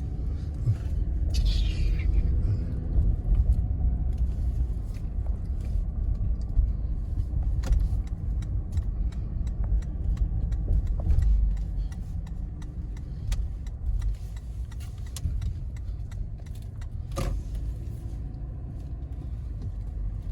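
Car interior road noise while driving: a steady low engine and tyre rumble, with scattered small clicks and rattles.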